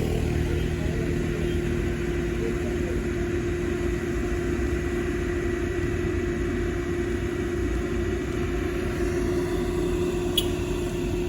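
Vehicle engine running steadily with a low rumble, and one sharp click near the end.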